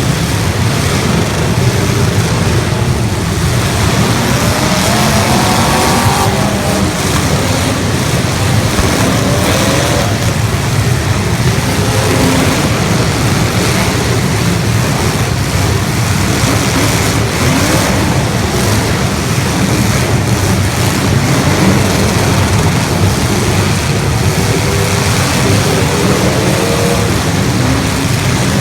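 Several 1980s stock demolition derby cars running loud, their engines revving up and down at times over a steady low rumble.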